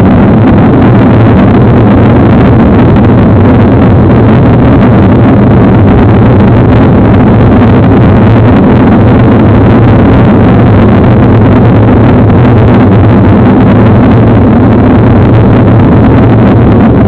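Steady wind rush and rolling noise on a camera microphone while riding a mountain bike, loud enough to overload the recording throughout.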